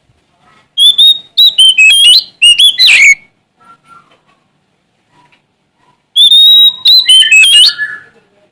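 Oriental magpie-robin (Sumatran kacer) singing: two loud phrases of rapid, sharp whistled notes, the first about a second in and the second past the six-second mark, with a quiet pause between.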